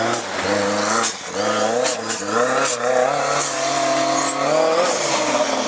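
Lancia Delta S4 Group B rally car's supercharged and turbocharged four-cylinder engine at full throttle, its pitch climbing and dropping again and again through gear changes and lifts, with a few sharp cracks about one and two seconds in.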